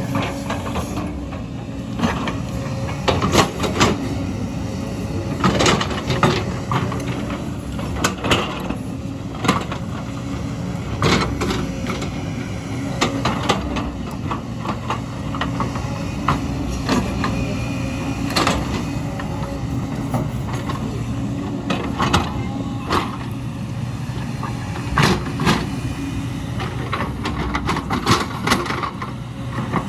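Excavator's diesel engine running steadily, with frequent sharp knocks and clanks every second or two.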